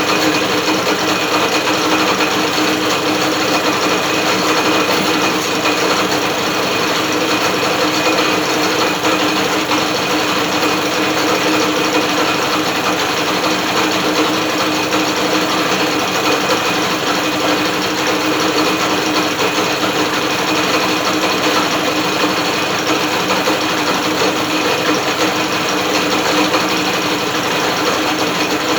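British Seagull outboard motor being spun over by an electric drill rather than firing: a steady mechanical whir and rattle from the drill motor and the outboard's moving parts, unchanging throughout. The owner says it doesn't sound very healthy.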